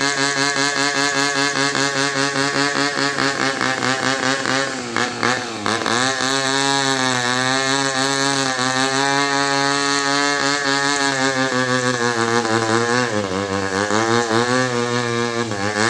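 Two-stroke chainsaw running at high revs, its pitch sagging twice, about five seconds in and again near the end, as it bogs down under load while cutting into a coconut trunk.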